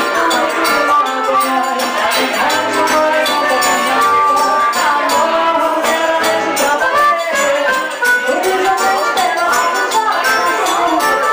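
Live forró band playing a lively, rhythmic dance tune, with accordion, guitar, zabumba drum and rattling hand percussion.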